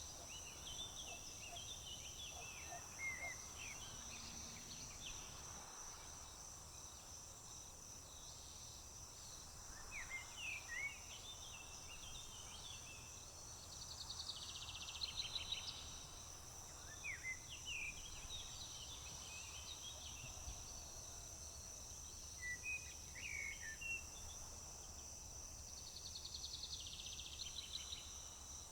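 Summer field ambience: a steady high-pitched drone of insects, with songbirds chirping on and off throughout and two short buzzy trills, one about halfway through and one near the end.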